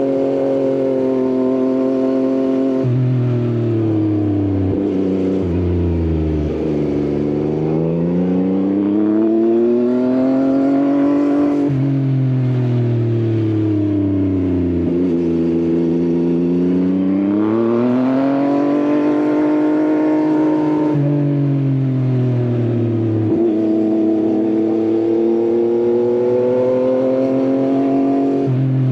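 Yamaha XSR900 inline-three engine through an Akrapovič exhaust, heard while riding. The engine note drops as the bike slows and climbs again as it accelerates, three times over, with sudden jumps in pitch at the gear changes.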